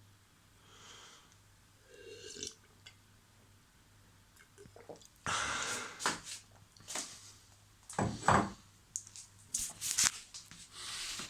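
A person's breaths and mouth noises close to the microphone, in several short bursts, the loudest a little past the middle, over a faint steady hum.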